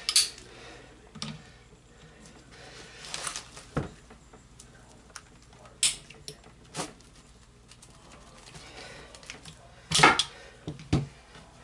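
Irregular clicks and knocks of an antique musket's wooden stock and metal fittings being handled, the loudest about ten seconds in.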